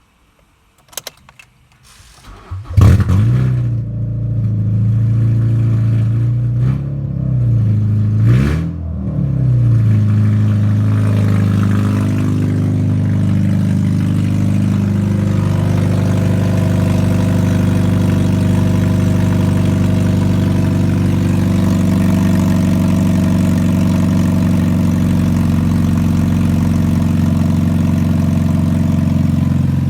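Mazda 6 GG's 2.0-litre LF inline-four petrol engine being started. It cranks briefly, catches with a loud flare, is revved up and down twice, then settles into a steady idle.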